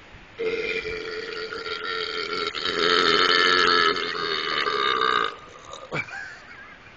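A long, loud belch lasting about five seconds, drawn out on one rough pitch and stopping abruptly. It is followed near the end by a short falling vocal sound.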